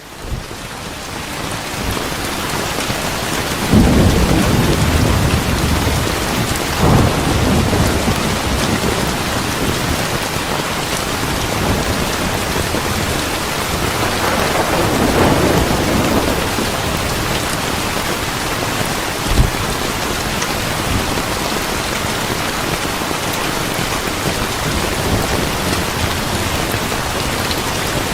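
Steady rain that swells up over the first few seconds, with rolls of thunder about four and seven seconds in and a longer rumble around fifteen seconds. A single short thump comes near nineteen seconds.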